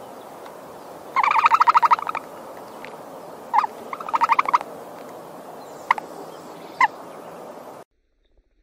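A bird calling in rapid rattling bursts, each about a second long, with a few short single notes between them over a steady background hiss. The sound cuts off abruptly about a second before the end.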